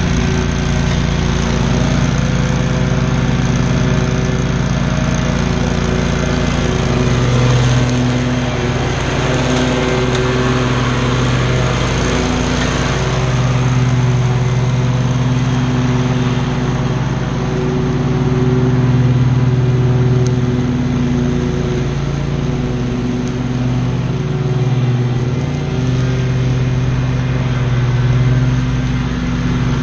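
Commercial lawn mower engine running steadily at working speed, its pitch and loudness wavering slightly as it mows tall grass.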